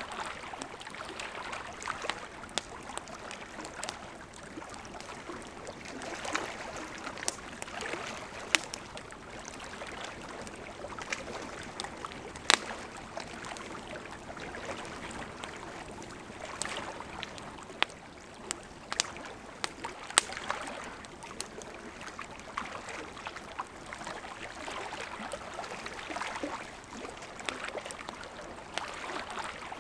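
Campfire of burning wood with a steady hiss of flames and frequent sharp crackles and pops. The sharpest pops come a little before halfway and again about two-thirds in.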